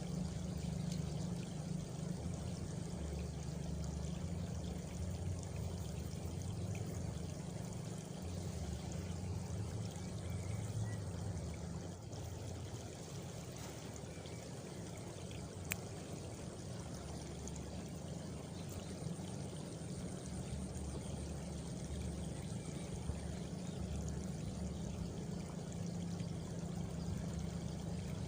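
Steady rush of running water, like a small stream or channel, with a faint high insect trill, plausibly crickets, in the second half and a single sharp click a little past halfway.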